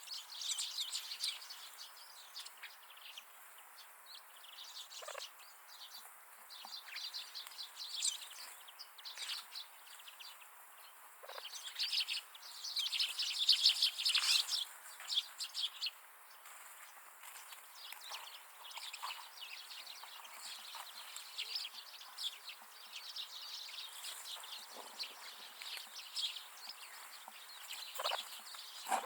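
Wild winter birds chirping and twittering in many short high calls, densest about twelve to fifteen seconds in.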